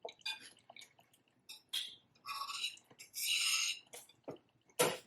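A person eating close to the microphone: short wet mouth clicks and chewing noises, with a longer noisy stretch about three seconds in.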